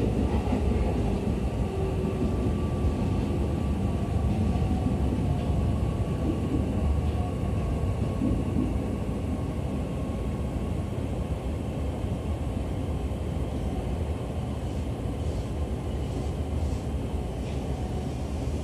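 Cabin running noise of a JR East E501 series electric train slowing into a station: a steady low rumble with a faint motor whine that slowly falls in pitch, the noise easing off gradually.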